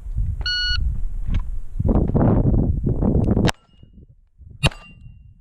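An electronic shot timer beeps once for the start, followed by a loud rushing noise. Then come two shots from a Beretta 92 9mm pistol about a second apart, the second followed by a steel target ringing briefly.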